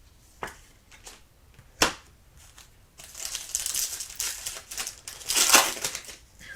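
A few sharp clicks, then a trading card pack's foil wrapper crinkling and tearing for about three seconds as it is opened.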